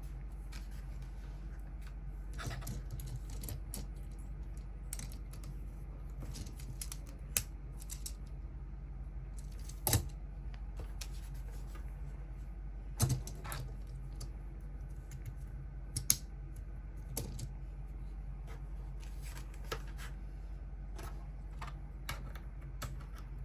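LEGO plastic pieces being handled and snapped together: scattered small clicks and taps, with a few sharper clicks about ten, thirteen and sixteen seconds in, over a steady low hum.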